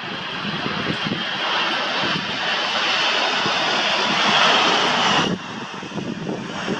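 Jet airliner's engines growing louder as it passes close, a rushing roar with a faint high whine, over gusty wind buffeting the microphone. The engine sound drops off abruptly about five seconds in.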